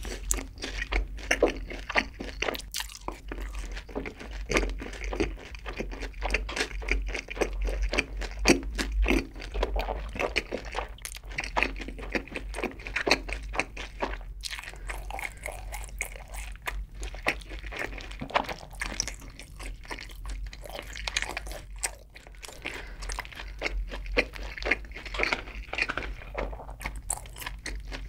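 Close-miked chewing of sauced Korean fried chicken (yangnyeom chicken), a dense run of irregular wet crunches and crackles of the fried coating between the teeth.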